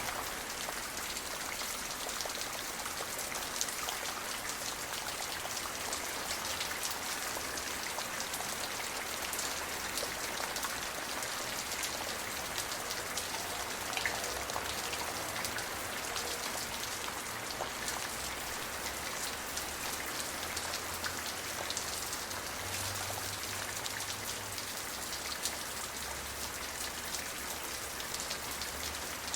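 Steady rain, with many fine drops ticking and pattering on a surface in a continuous even hiss.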